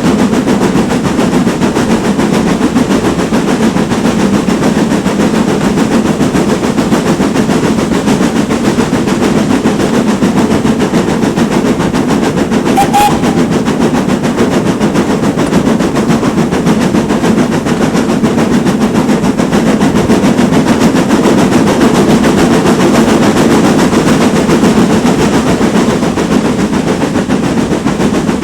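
GWR Manor-class steam locomotive working hard, its exhaust barking in rapid, steady beats that run together into a continuous rumble.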